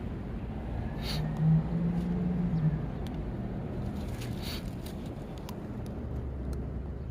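Road traffic rumbling steadily, with one vehicle's engine note standing out briefly about a second in, and a couple of short clicks.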